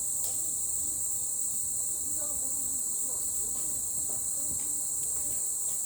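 A steady, unbroken high-pitched chorus of insects such as crickets or cicadas, with faint distant voices beneath it.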